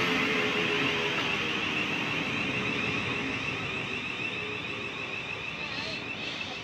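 Electric passenger train running away along the track, its wheel and motor noise with a high whine fading steadily as it goes.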